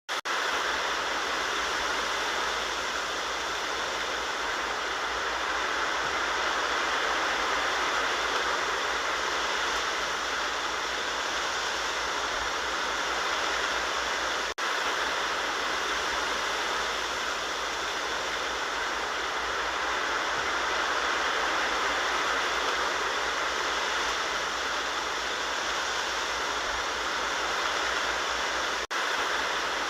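Wind rustling through the leaves of a bamboo grove, a steady rushing hiss that breaks off for an instant twice, about halfway through and near the end.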